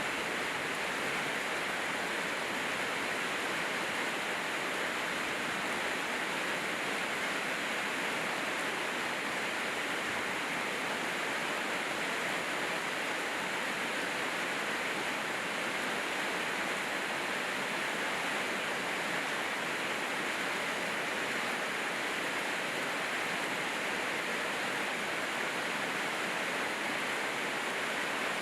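Steady, heavy rainfall: an even, unbroken hiss with no single drops standing out.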